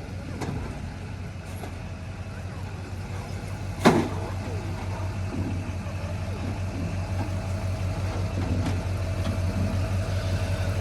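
A vehicle engine running steadily with a low pulsing hum, with one sharp knock about four seconds in.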